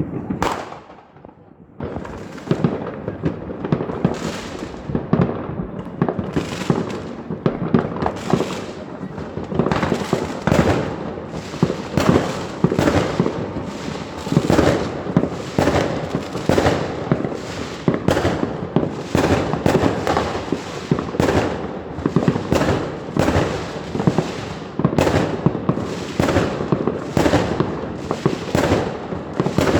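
Fireworks display: aerial shells bursting in rapid succession, several bangs a second with some overlapping, after a brief lull in the first two seconds.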